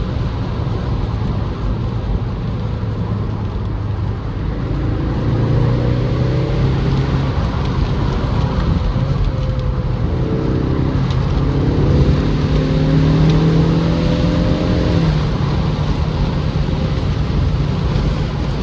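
Turbocharged 2.3-litre four-cylinder of a 2025 Ford Mustang EcoBoost accelerating under wind and road noise. The engine note climbs twice with a gear change between, then drops back near the end of the second climb.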